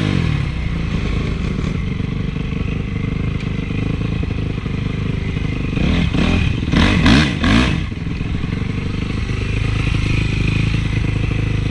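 Honda CRF450 four-stroke single-cylinder motocross engine running, revved up and down several times in quick succession about six to eight seconds in, then running steadily again.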